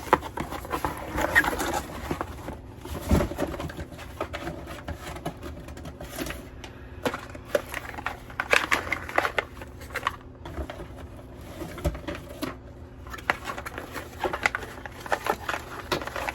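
Package being opened and handled: irregular rustling and crinkling of packaging with many small clicks and taps, and a dull thump about three seconds in.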